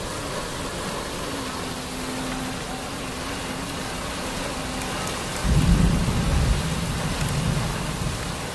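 Heavy rain pouring onto paving and standing water, a steady hiss. About five and a half seconds in, a low rumble of thunder rises and fades over the next two or three seconds.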